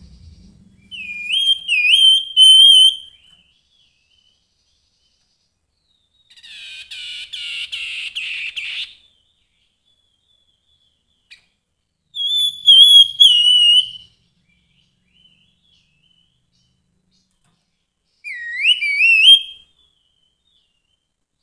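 Grey-headed babbler singing: three bursts of loud, clear whistled notes that slide up and down, with a harsher, buzzy chattering phrase lasting about three seconds between the first two.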